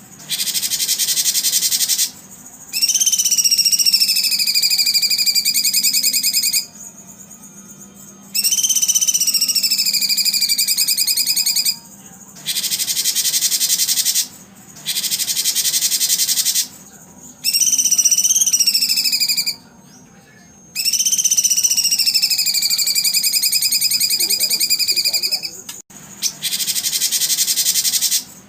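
Repeated loud, high buzzing animal calls, each two to four seconds long with short breaks between. Several carry a whistling tone that drops and then holds under the buzz.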